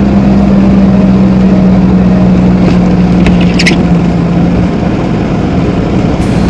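A vehicle running, heard as a loud steady rumble with a steady low hum that fades out about three-quarters of the way through. A few brief clicks come around the middle.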